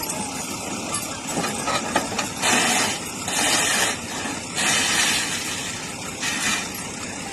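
Tractor engine running steadily, broken by four short bursts of hiss in the middle.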